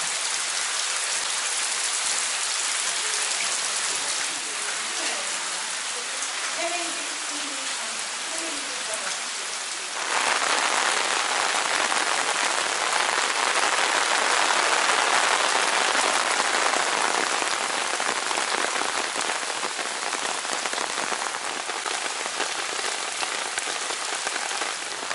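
Heavy downpour of rain falling steadily on paving and a wet street, an even hiss of many drops. It grows louder about ten seconds in.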